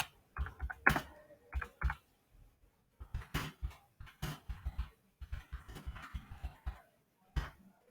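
Computer keyboard typing: clusters of quick, irregular keystrokes with short pauses between them.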